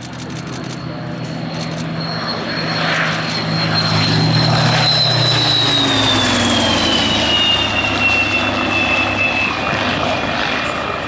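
Rolls-Royce Merlin piston engines of a Spitfire Mk I and a Sea Hurricane Mk Ib flying past as a pair. The engine sound builds to its loudest about four seconds in, then its pitch falls as the aircraft pass and it stays loud.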